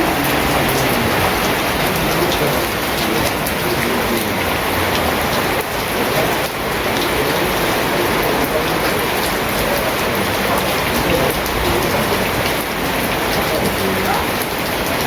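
Heavy rain falling steadily, with many small drop impacts ticking through the steady hiss.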